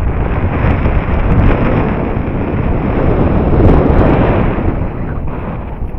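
Wind buffeting the microphone in strong gusts: a loud, rumbling rush that swells to its peak a little past halfway and eases off near the end.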